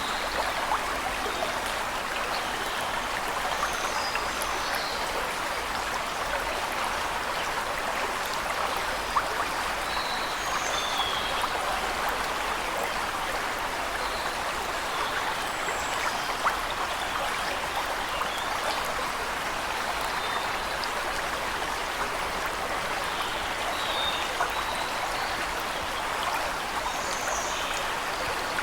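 A waterfall's falling water rushing steadily, with faint, brief bird chirps every few seconds.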